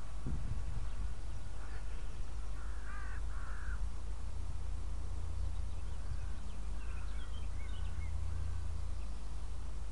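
A few bird calls outdoors, a cluster about three seconds in and fainter ones near eight seconds, over a steady low rumble.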